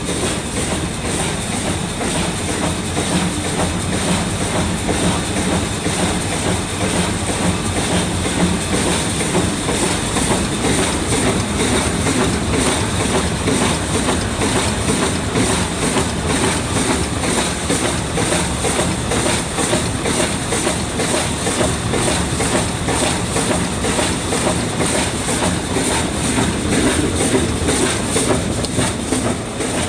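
Vertical form-fill-seal packing machine for sunflower seeds running, a steady, dense mechanical clatter with a constant high whine over it.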